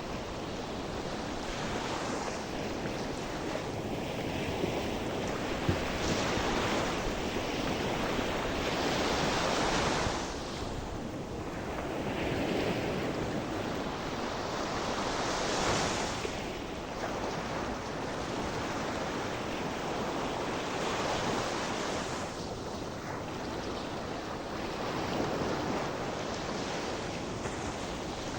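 Sea waves breaking and washing on the shore, the surf swelling and easing every few seconds, with wind on the microphone.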